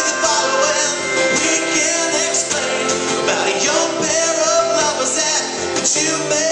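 Live song performance in an instrumental passage: guitar accompaniment with harmonica.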